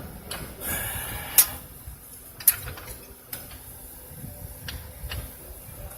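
Scattered sharp metal clicks and knocks from a jack being tightened up under a stack of ball-joint press adapter rings, the two loudest about a second and a half and two and a half seconds in.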